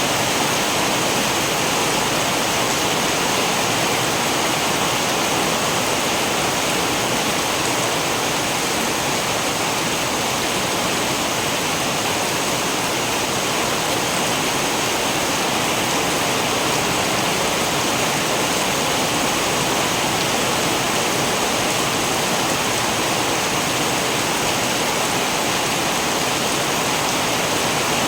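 Steady, heavy rain: an even, unbroken hiss of downpour with no thunder claps or separate drips standing out.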